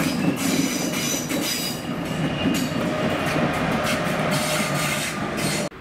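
Intercity Direct train of ICRm coaches hauled by a Class 186 Traxx electric locomotive rolling past, its wheels clattering rhythmically over the rail joints. The sound cuts off suddenly near the end.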